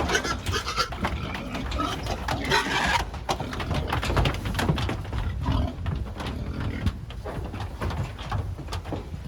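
Pigs squealing and grunting while being herded onto a truck, with trotters clattering and knocking on the floor. The squealing is strongest in the first three seconds, then mostly knocks and clatter.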